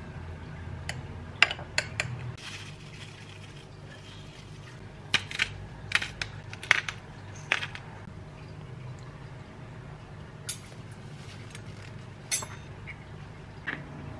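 Dishes and cutlery being handled: scattered light clinks and taps, a dozen or so at uneven intervals, over a steady low hum.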